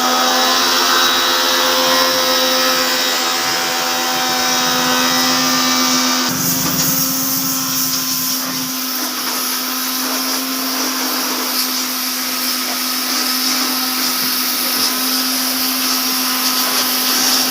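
Electric pressure washer running steadily with a constant motor-pump hum; about six seconds in, the deeper part of the sound drops away and it runs on lighter.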